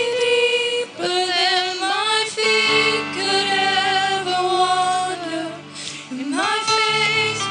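Congregational worship song: a female lead voice sings held, gliding notes over sustained keyboard-like chords, between sung lines.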